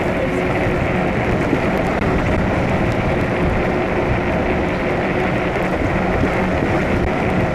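Steady rush of wind and tyre noise on a wet road from a fat-tire e-bike being ridden in the rain, with a faint steady hum underneath.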